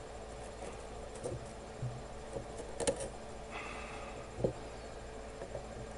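A few light taps and clicks of hand tools working on a circuit board, with a brief faint hiss about three and a half seconds in.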